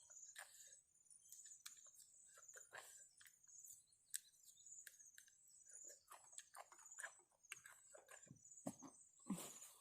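Close-up eating sounds: irregular crisp crunches and mouth clicks of someone chewing food, a few louder crunches near the end, over a steady faint high buzz.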